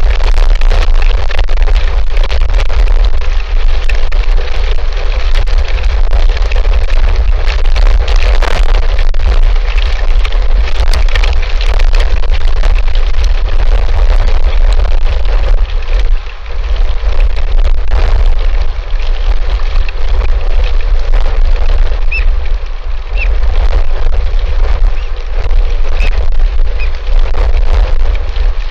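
Strong wind blowing over an outdoor camera microphone: a constant heavy low rumble with a gusting hiss, easing briefly a couple of times.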